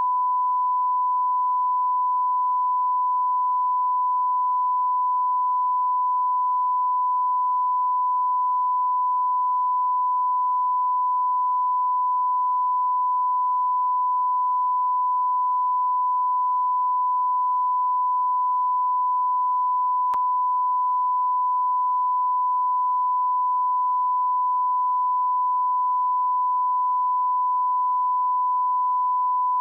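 Continuous electronic sine-wave tone at about 1 kHz, a single steady pitch held without a break, like a test tone or censor beep.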